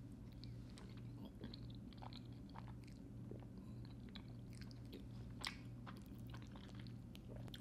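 Quiet chewing of a mouthful of soft fettuccine noodles in creamy Alfredo sauce: scattered small wet mouth clicks, over a faint steady low hum.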